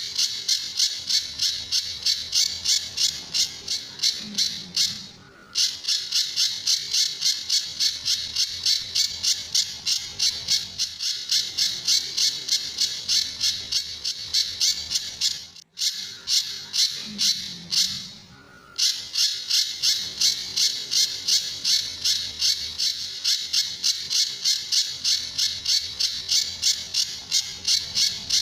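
Pijantur bird calling a sharp, high note over and over, about twice a second, in the rapid 'tembakan' (shooting) style of a masteran track for tutoring other songbirds. The calling breaks off briefly twice, near 5 s and again for a few seconds in the middle.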